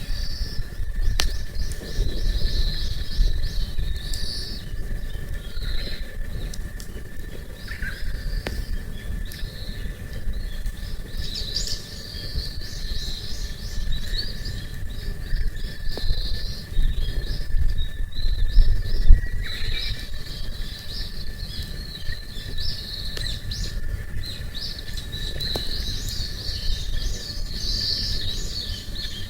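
Wild birds chirping and singing continuously, with a low rumble of wind underneath and a few sharp crackles from a campfire.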